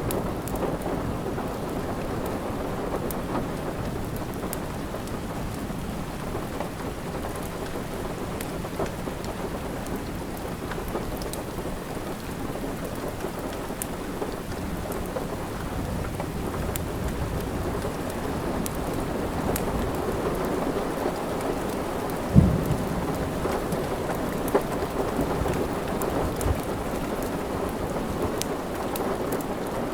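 Steady rain mixed with a crackling wood fire, with thin scattered crackles over a low rush. One sharp loud pop comes about 22 seconds in and a smaller one a couple of seconds later.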